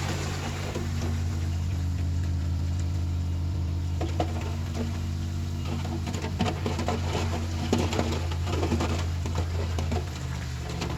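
Komatsu D31PX bulldozer's diesel engine running steadily with a deep hum. Scattered clanks and rattles from the tracks and moving dirt start about four seconds in.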